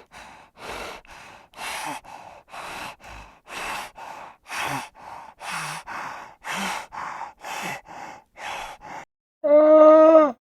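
An animal breathing heavily, with about one breath a second in a steady rhythm, then a loud drawn-out call near the end.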